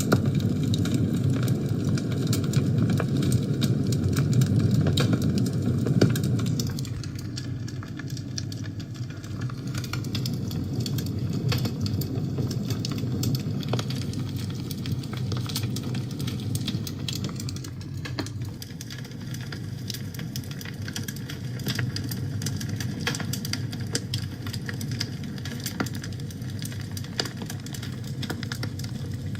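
Wood fire burning in a fireplace: a low, steady rumble of flames with many small crackles and pops throughout. The rumble is louder for the first several seconds, then eases.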